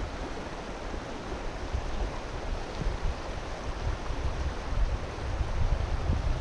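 Steady rushing noise of running water, with a fluctuating low rumble underneath.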